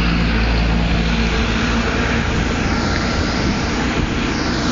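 Airliner engines running loudly, a steady rush of noise with a low hum that fades out after about a second and a half.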